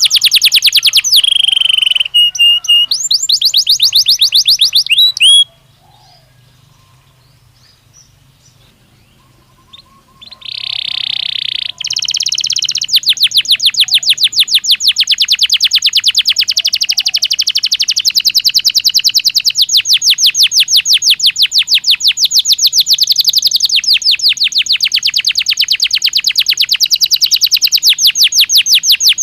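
Belgian canary singing: rapid trills of repeated sweeping notes, breaking off about five seconds in. After a pause of about five seconds comes a short rolled note, then a long, unbroken rapid trill through the rest.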